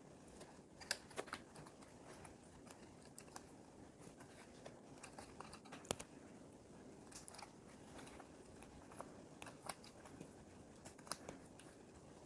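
Faint, irregular clicks and light rattling of plastic Lego pieces being handled and pressed together.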